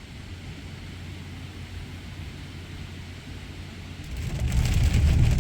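A low steady rumble, then about four seconds in a sudden loud rush of strong wind buffeting the microphone.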